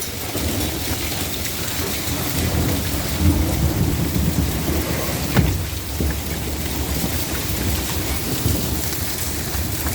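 Thunderstorm: rain and pea-sized hail falling steadily, with thunder rumbling low through the middle and a sharp crack about five seconds in.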